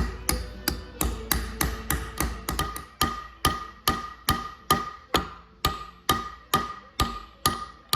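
Hammer blows on steel, struck steadily at about two and a half a second, each with a short metallic ring. The hammer is driving a tool against the big nut of a TMR mixer's gearbox to loosen it.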